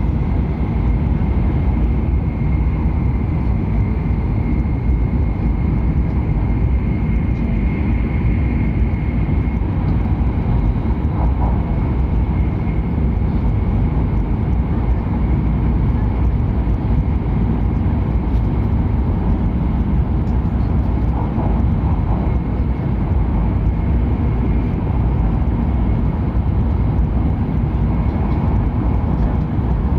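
Steady running noise of a Hokuriku Shinkansen train at speed, heard inside the passenger cabin: a deep, even rumble with a faint high whine over it.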